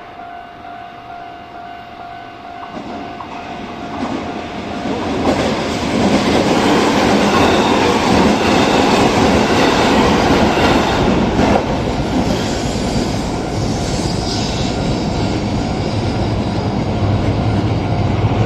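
An up train passes over the level crossing. The rumble of the train and the clatter of its wheels on the rails build from about four seconds in and stay loud from about six seconds on. A steady tone stops about three seconds in.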